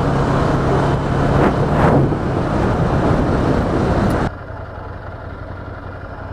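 Ducati Scrambler Urban Enduro's air-cooled L-twin running under way with heavy wind noise on the helmet microphone, then abruptly much quieter, a steady engine hum, about four seconds in.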